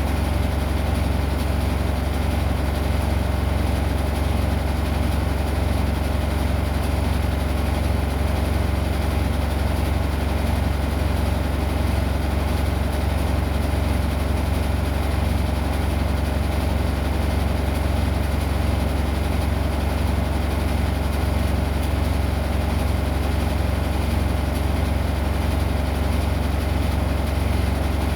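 Washing machine running with a steady low hum that does not change.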